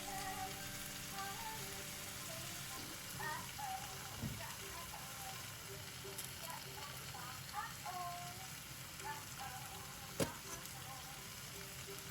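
Food sizzling steadily in a frying pan, with a single sharp click about ten seconds in.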